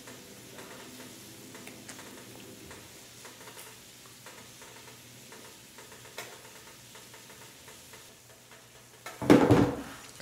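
Teriyaki yaki udon sizzling faintly on an old electric grill pan, with occasional light clicks from the grill. About nine seconds in there is a short, loud burst of noise.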